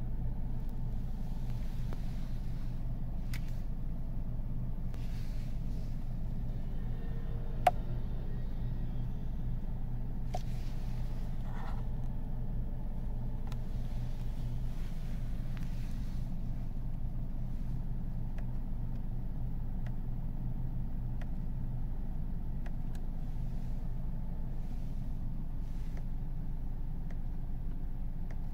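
BMW B48 2.0-litre turbocharged four-cylinder idling steadily in park, heard from inside the cabin. A few light clicks sound over it, one sharper than the rest about eight seconds in.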